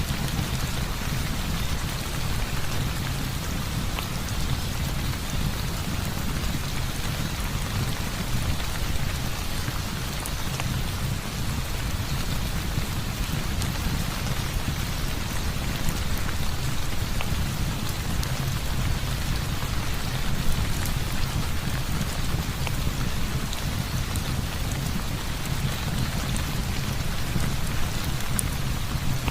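Heavy rain falling steadily, with a constant low rumble underneath and scattered faint ticks of individual drops.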